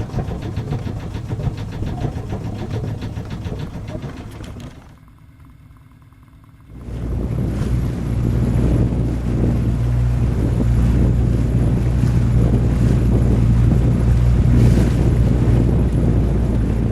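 An engine running steadily, with a low hum and noise; it drops away briefly about five seconds in, then comes back louder and steady.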